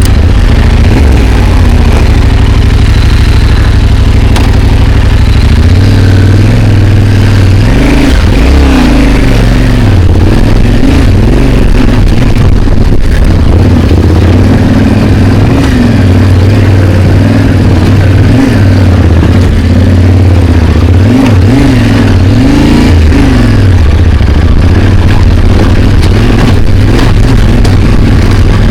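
Yamaha Ténéré 700's parallel-twin engine running hard under load on a climb, its revs rising and falling over and over.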